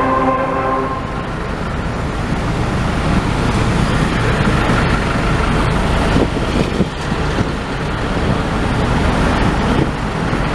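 Steady road traffic noise: a dense, continuous wash of engine and tyre noise from passing vehicles.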